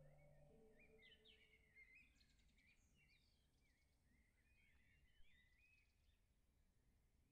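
Faint birdsong: small birds chirping and twittering in quick short calls over quiet outdoor background noise. A low steady drone tone stops about half a second in.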